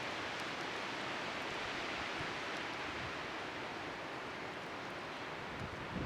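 Outdoor wood bonfire burning with a few faint crackles over a steady rush of wind.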